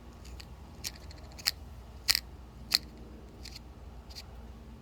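Paint marker writing on a metal hydraulic cylinder: a series of about six short, scratchy strokes.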